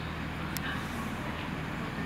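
Train at a station platform running with a steady low hum, with a single short click about half a second in.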